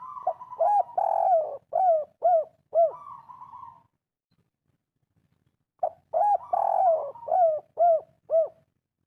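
Spotted dove (tekukur) singing its 'kuk 3' cooing song: two phrases a couple of seconds apart, each a run of short, arching coos.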